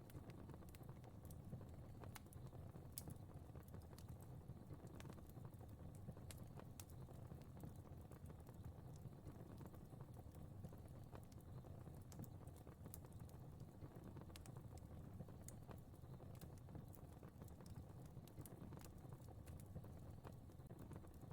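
Faint crackling fire: a soft low rumble with scattered small pops and snaps at irregular intervals.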